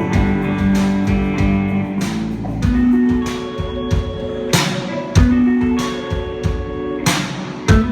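A band playing an instrumental passage of an indie-pop song, guitar to the fore, with sustained notes and regular drum hits, some ringing on like cymbal crashes.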